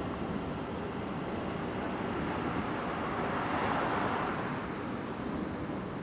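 DART class 8600 electric multiple unit running past, a steady rumble and hiss of wheels on rail that swells briefly about three and a half seconds in.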